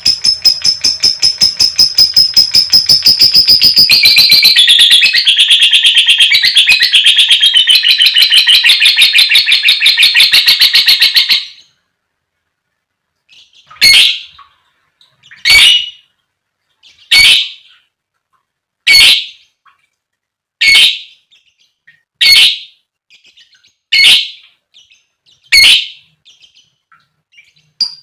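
Lovebird ngekek: a long, fast chattering trill of shrill, evenly repeated notes that runs about eleven seconds and stops abruptly. After a short pause come eight loud single shrill calls, one about every second and a half to two seconds. This long chattering call is the one lovebird keepers prize in a bird that is in full voice and calling to rivals or mates.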